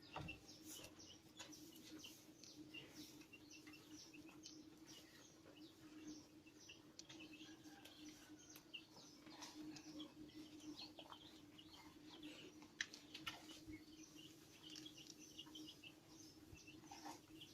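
Faint chirping of small birds, many short calls overlapping through the whole stretch, over a steady low hum.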